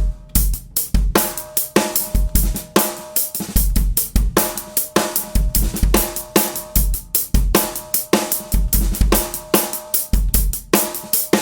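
Drum kit groove built around a 14" x 6" London plane wood snare drum (Zebra Drums Red Plane) tuned high and played unmuffled, with a coated Remo Ambassador batter head. Each snare hit rings at a clear, steady pitch over kick drum and hi-hat/cymbal strokes.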